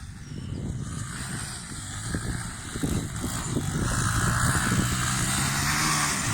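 Motorcycle engine running hard under load and growing louder as the bike comes closer, its rear tyre spinning and slipping for grip.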